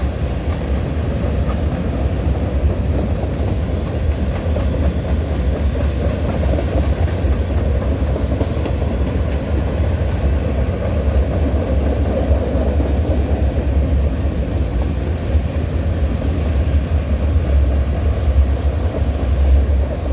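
Freight cars of a long Norfolk Southern manifest train rolling steadily past, a continuous rumble of wheels on rail.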